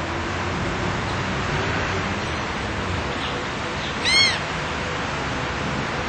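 A bird gives one short call about four seconds in, rising then falling in pitch, over a steady background rush.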